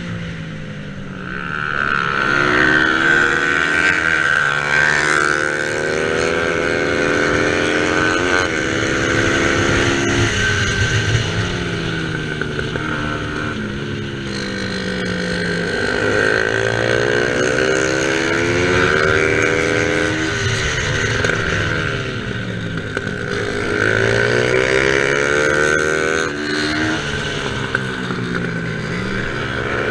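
Small-displacement racing motorcycle engines revving hard: the pitch climbs in steps through the gears and drops again several times, with more than one engine heard at once.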